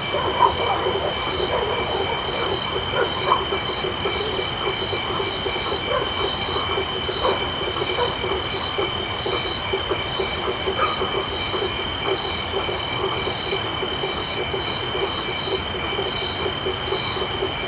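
Night chorus of tropical frogs and crickets: a steady, high-pitched ringing trill of insects over a dense, continuous chatter of short frog calls, with occasional higher frog notes.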